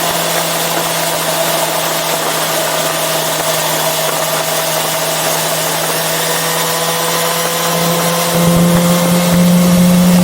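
A Yamaha FZ6R's inline-four engine running while riding, with wind rush and engine tones that drift slowly in pitch. About eight seconds in it grows louder and heavier.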